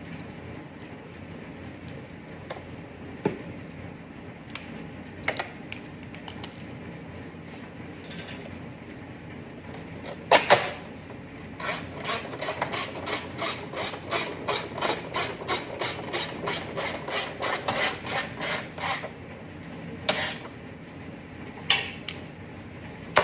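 Hand ratchet wrench tightening a bolt: a steady run of clicking strokes about three a second for several seconds, with a few sharp metal knocks of the tool before and after.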